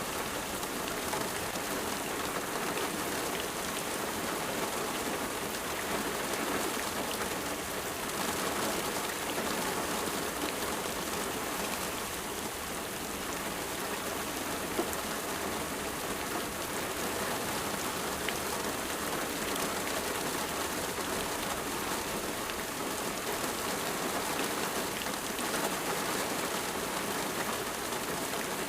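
Steady rain falling on a surface, an even patter with a few distinct drops standing out.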